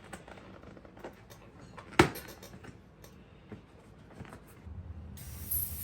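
Scattered small clicks and knocks of things being handled, with one sharp knock about two seconds in and a short hiss near the end.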